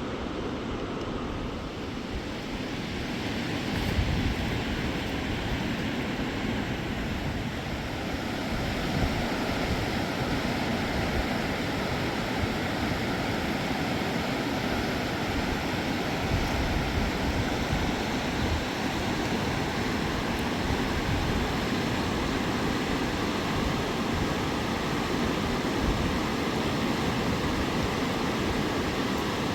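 Steady rushing of flowing river water, with irregular low rumbles underneath.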